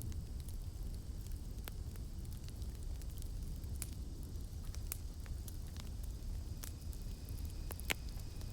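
Campfire crackling: irregular sharp pops and snaps of burning wood over a steady low rumble of the flames, with one louder pop near the end.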